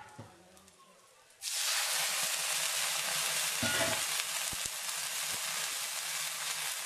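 Onion and spice paste frying in hot oil in a wok: a loud, steady sizzle that starts suddenly about a second and a half in.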